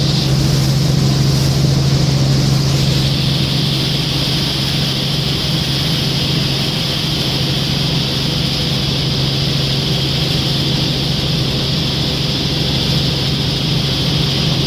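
Helicopter in flight heard from inside the cabin: a loud, steady drone with a low hum and a hiss over it.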